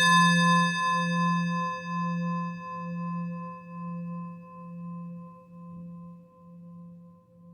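Singing bowl ringing out and slowly fading after a single strike, its low hum pulsing about once a second while the higher overtones die away first.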